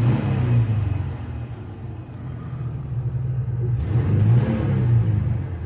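Pickup truck's V6 engine, long unused and just jump-started, being revved in park: the engine note rises and falls twice, once right at the start and again about four seconds in, over a steady idle.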